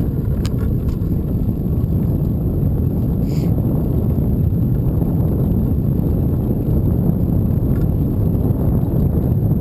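Wind buffeting the microphone of a camera riding along on a moving bicycle: a steady, loud low rumble, with a few faint clicks and a brief hiss about three seconds in.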